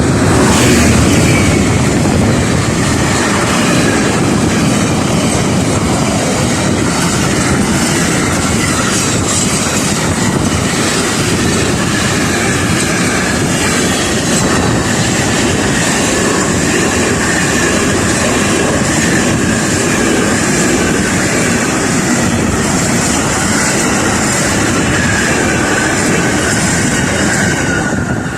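A train running past at close range: a steady, loud rumble of wheels on rail with rhythmic clattering, and a high wheel squeal that slowly drifts lower in pitch. The noise falls away suddenly at the end as the last vehicle passes.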